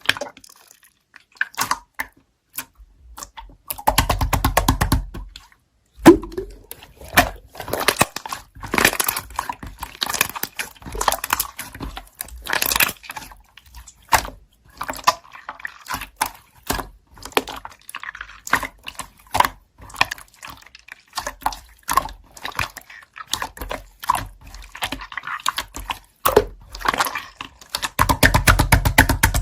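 Slime being squished and poked by hand: a run of wet clicks and pops. Twice, about four seconds in and near the end, comes a second of rapid crackling pops as air bubbles in the slime burst.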